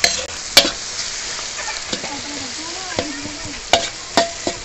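Tomatoes and onions frying in oil in a large metal kadhai, sizzling steadily while a steel spatula stirs them, clinking sharply against the pan a few times.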